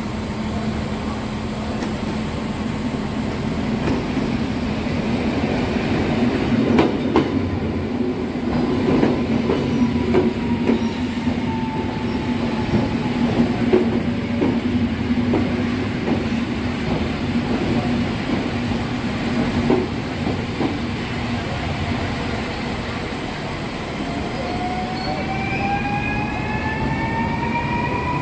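Electric multiple-unit passenger trains running along a station platform: a steady low rumbling hum with repeated clicks of wheels over rail joints, and a whine that falls in pitch midway. Near the end, electric traction whines rise in pitch as a train accelerates away.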